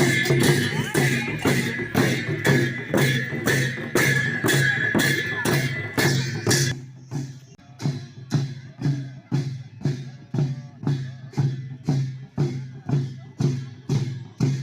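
Steady drum and cymbal beat of Sakela dance music, about two strokes a second. Voices and a high steady tone sound over it until about seven seconds in, then cut off, leaving the beat almost alone.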